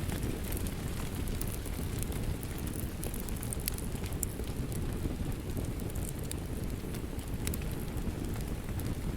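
Steady rain with a wood fire crackling over it: a dense low rushing noise, with scattered sharp pops and crackles from the fire.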